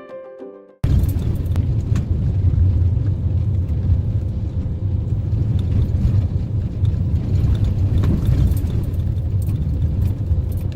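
Steady low rumble of road noise inside a moving car, starting abruptly just under a second in as piano music cuts off, with scattered faint clicks.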